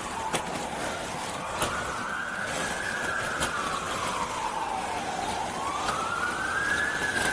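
Emergency vehicle siren on a slow wail, rising and falling about once every four to five seconds, for medical help arriving.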